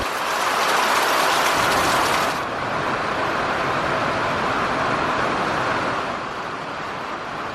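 Steady rushing noise of heavy rain and falling water. The high hiss drops away abruptly about two and a half seconds in, leaving a duller rush.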